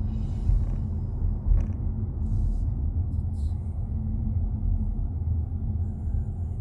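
Steady low road and engine rumble inside the cabin of a moving Kia Seltos.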